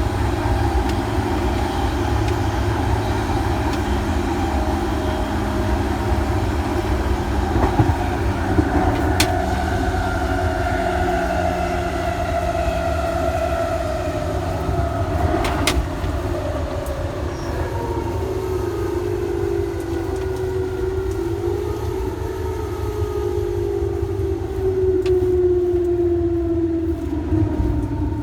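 Electric train running, its traction motor whine falling slowly and steadily in pitch as the train slows, over a steady rumble. Two sharp clicks partway through.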